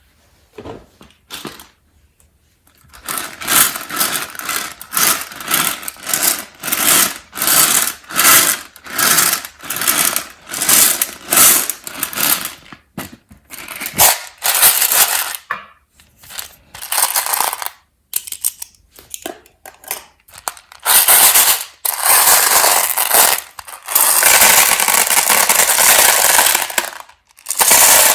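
A bag of peanut M&M's being handled and opened, its plastic wrapper crinkling in quick rustling bursts, about two a second at first, then longer continuous crinkling near the end.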